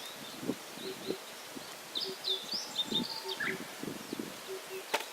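Wild birds calling in spring woodland. A low, soft two-note call repeats about once a second, and a brief burst of high chirping notes comes in the middle. Faint rustling and soft knocks sound underneath.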